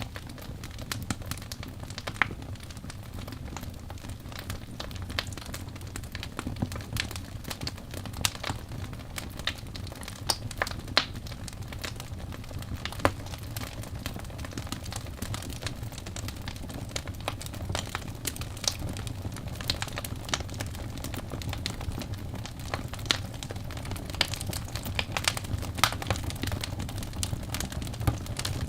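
Birch logs burning in a fireplace: a steady low rumble of the flames with irregular crackles and sharp pops scattered throughout, a few louder snaps standing out.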